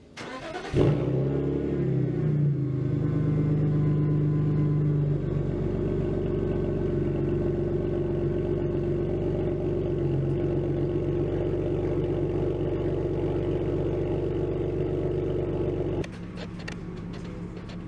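A car engine comes in suddenly about a second in, rises briefly in a short rev, then runs steadily at idle. Its sound drops away suddenly a couple of seconds before the end.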